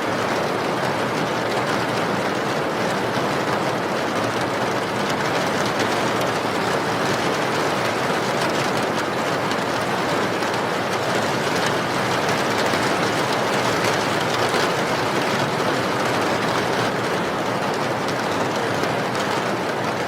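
Steady heavy rain: an even, unbroken hiss of falling water with no changes.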